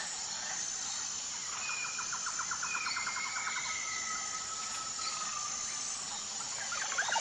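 Steady high-pitched insect drone with birds calling over it: a rapid trill about a second and a half in, long drawn whistles, and a burst of quick chirps near the end.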